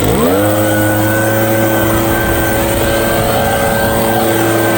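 Motor of a hedge trimmer revving up quickly from low speed, its pitch sweeping up within the first half-second, then running at a steady high speed.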